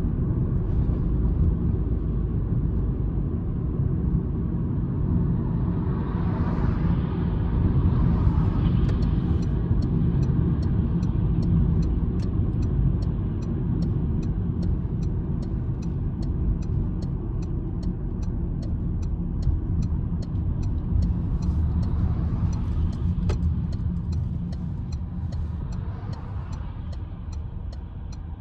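Citroen C-Elysee's 1.2 EB2 PureTech three-cylinder engine and tyre rumble, heard from inside the cabin while driving. From about nine seconds in, a light even ticking at about two a second, typical of the turn-signal relay, sits over the rumble. The sound eases off near the end.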